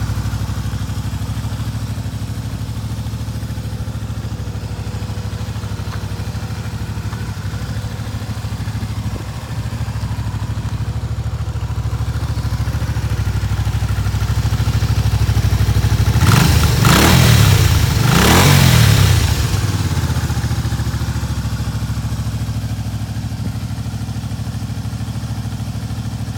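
Honda Magna 250 V-twin motorcycle engine idling steadily after starting, with two short throttle blips about sixteen and eighteen seconds in, each revving up and falling back to idle.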